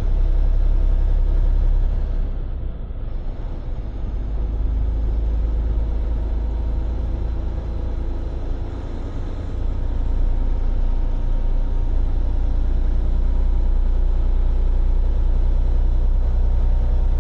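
Semi truck's diesel engine and road noise heard inside the cab while driving, a steady low rumble. The level dips briefly about two seconds in and again around nine seconds, then comes back up.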